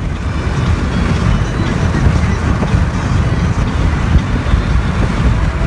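Loud, steady rumble of a moving vehicle, with wind buffeting the microphone.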